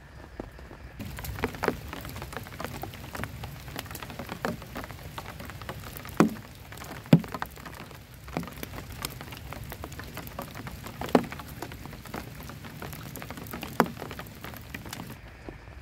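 Rain falling, a dense stream of small drop ticks with a handful of louder, heavier drops striking, four of them standing out. It starts abruptly about a second in and cuts off just before the end.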